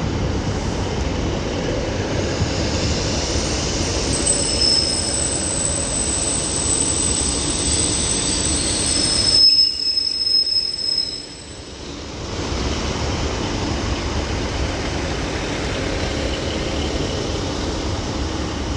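Northern Class 156 and Class 150 diesel multiple units pulling slowly into the platform, a steady rail rumble with thin high-pitched wheel squeal from about four seconds in until about eleven seconds in. The overall sound dips briefly around ten to twelve seconds in, then the rumble carries on.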